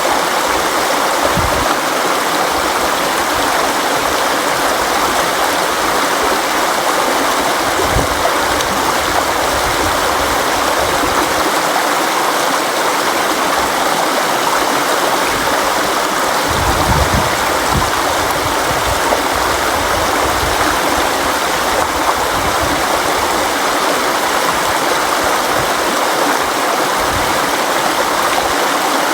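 River water flowing in a steady, loud rush, with occasional brief low rumbles.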